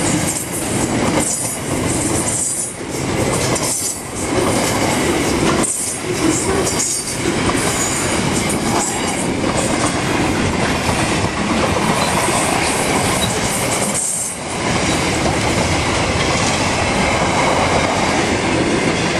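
Wagons of an intermodal freight train rolling past, with a steady loud clatter of wheels on rail. The noise dips briefly every second or two.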